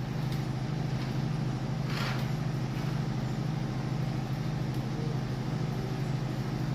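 A steady, low engine-like hum that wavers slightly, with a brief hiss about two seconds in.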